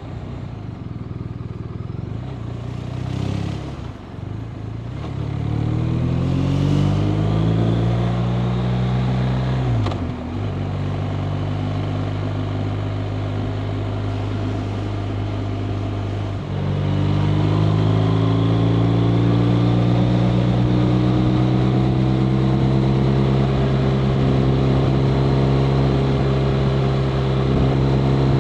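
BMW R 1250 RT's boxer-twin engine under way. It revs up over the first several seconds and drops sharply at a gear shift about ten seconds in. It holds a steady cruise, then opens up louder a little past halfway and stays there.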